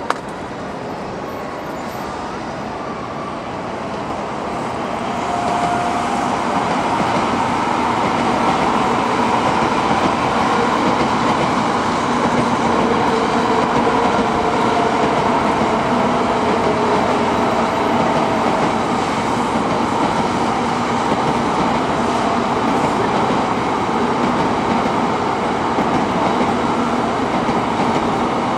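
Train running past on rail, its noise swelling about five seconds in and then staying loud and steady.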